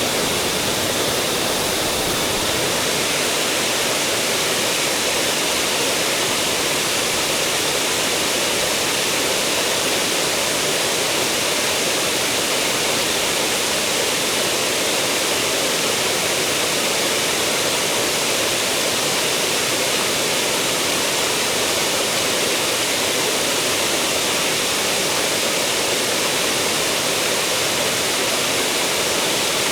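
Mountain stream water rushing steadily over rocks, a constant loud rush with no change.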